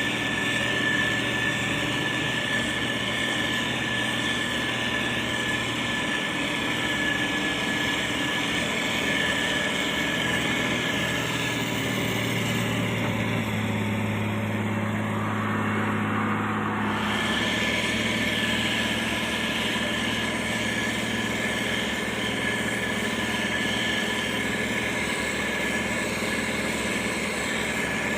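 Heavy diesel road-construction machinery running steadily, with a steady high whine over the engine noise. About halfway through, for a few seconds, the low engine hum grows stronger and the hiss above it drops away, then the earlier sound returns.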